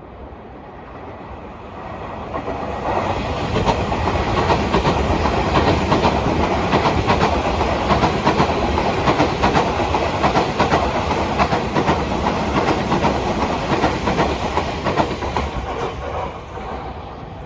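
Electric train running on the rails, its wheels clacking over the rail joints; the sound builds up over the first few seconds, stays loud with a quick run of clacks, and dies away near the end, as a train going past.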